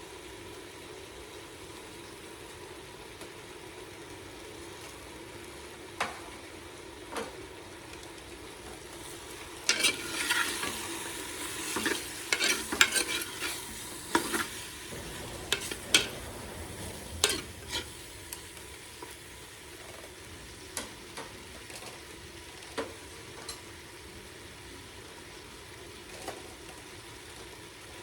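Pork sizzling in a pan, with a steady frying hiss. For several seconds in the middle it is stirred, with a run of clattering scrapes against the pan, and there are a few single knocks before and after.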